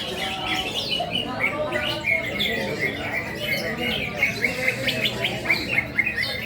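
Many songbirds chirping and twittering at once in dense, overlapping short calls and trills, with a low murmur beneath.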